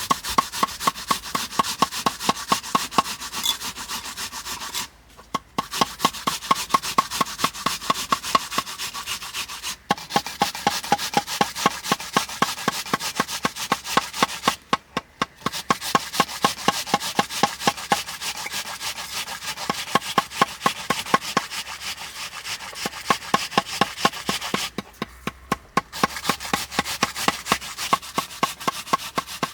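Rhythmic rasping strokes, several a second, in runs of about five seconds broken by short pauses.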